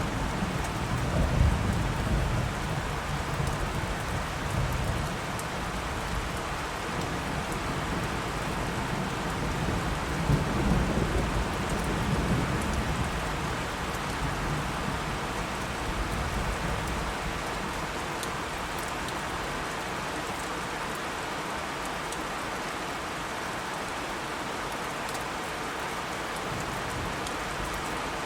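Steady rain falling during a thunderstorm, with low rolling thunder that swells twice in the first half and then dies away, leaving the rain alone.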